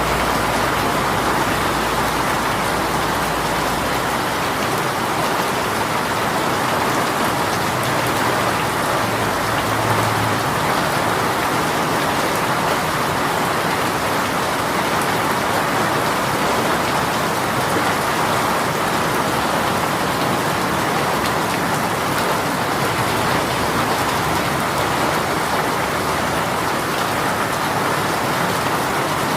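A rain shower falling steadily, an even hiss of raindrops on surfaces. A low rumble underneath stops about four seconds in.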